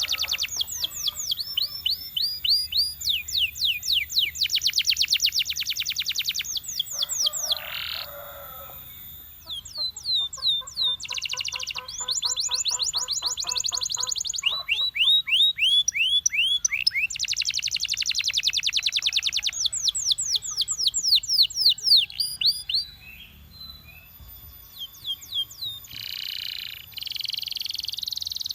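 Canary singing a continuous song of rapid trills: fast runs of repeated down-slurred notes that switch to a new phrase every second or two, with a lower rolling trill in the middle. The song breaks off briefly near the end, then resumes with a buzzier roll.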